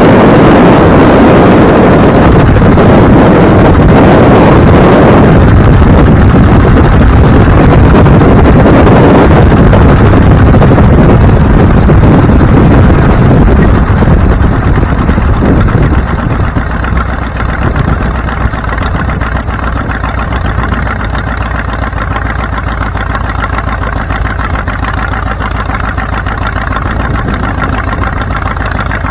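Vehicle on the move with loud wind and road noise, which eases off about halfway through to a steady, quieter engine idle.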